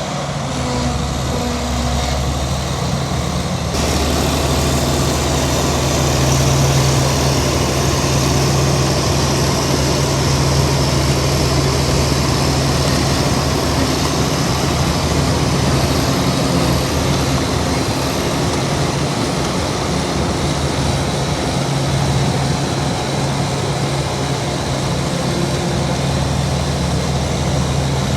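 Heavy diesel earthmoving machinery running steadily at a low, even engine note. The sound grows fuller and a little louder about four seconds in.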